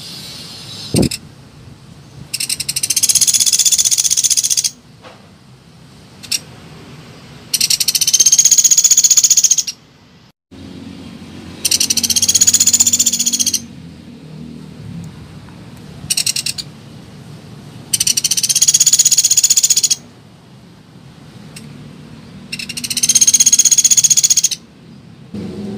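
Woodpecker calls: loud, high-pitched rattling trills about two seconds long, repeated every four to five seconds, with a low background hum between calls.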